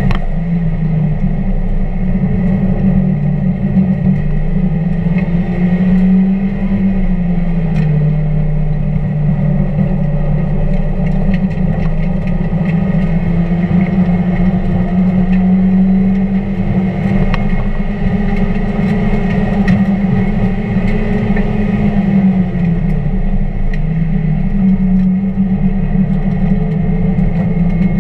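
1999 Mazda Miata's 1.8-litre four-cylinder engine running hard on track, its note rising and falling several times with throttle and gear changes, over road and wind noise.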